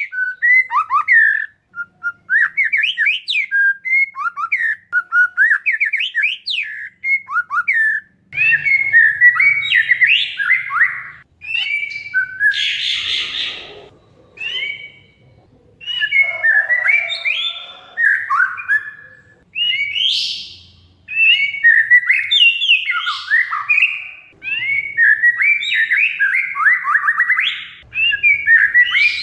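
Oriental magpie-robin (kacer) singing loudly in a long, varied run of whistled phrases, slurs and rapid trills, with a harsh rasping chatter about halfway through.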